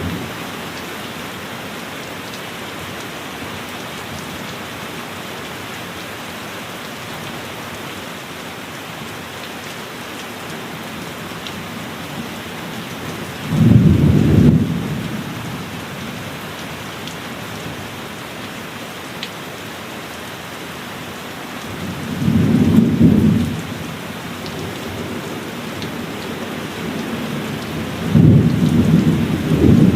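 Steady heavy rain hissing, with thunder rumbling three times: about halfway through, again a few seconds later, and once more near the end.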